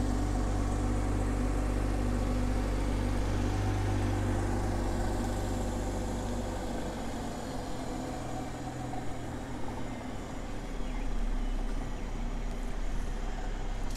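2021 Toyota Supra 3.0's turbocharged inline-six idling steadily on warm-up, a little quieter in the middle.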